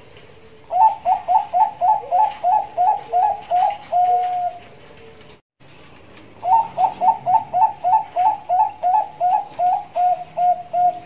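Zebra dove (Bangkok perkutut) singing two cooing phrases in the fast-rolling 'nduduk ngitit' style: each a quick run of short rising notes, about five a second, closing on a longer held coo.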